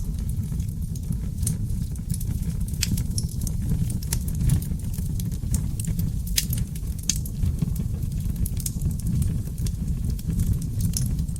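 Oak logs burning in an open fireplace: a steady low rumble of flames with frequent sharp crackles and pops scattered irregularly throughout.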